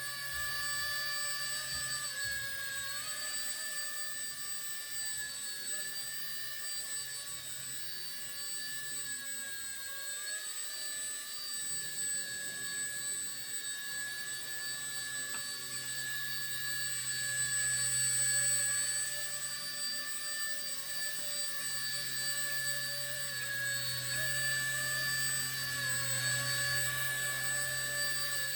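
Micro RC helicopter's brushless motor and rotor whining steadily in flight, the pitch wavering slightly as the throttle shifts, and briefly louder a little past halfway.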